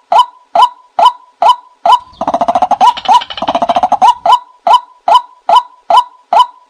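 Recorded bird call played as a hunting lure: a short, sharp note repeated evenly about twice a second. About two seconds in, a louder rapid chattering call with a low buzz beneath it joins in for about two seconds.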